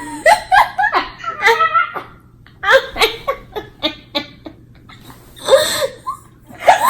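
People laughing in several bursts of quick, pulsing laughs with short pauses between them.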